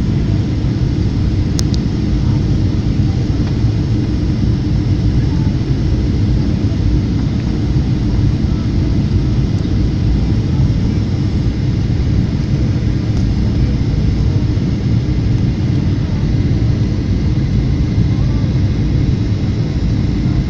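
Steady, loud airliner cabin rumble of engines and airflow, heard from inside the passenger cabin, with a brief click about one and a half seconds in.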